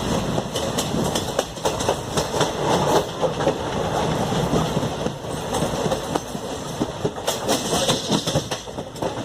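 Passenger train running along the track, its wheels clattering with many irregular clicks over the rails.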